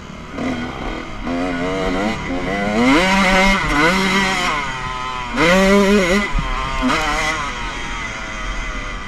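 Motocross bike engine revving hard and easing off over and over, its pitch climbing and dropping as the rider works the throttle and shifts, with the loudest surges about three and five and a half seconds in.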